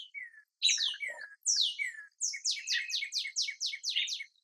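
A songbird singing: a few slurred falling notes, then a quick run of about eight high, descending sweeps at about four a second.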